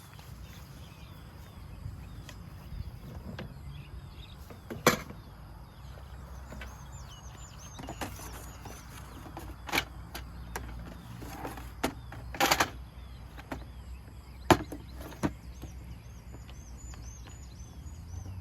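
Camping gear being handled and packed away: scattered sharp knocks and clacks, about seven in all, with a longer clatter about twelve seconds in. Faint high bird chirps in the background.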